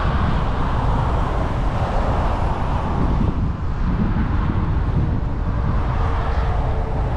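Steady wind rush and rumble on the microphone of a camera riding along on a moving e-bike, mixed with tyre and road noise.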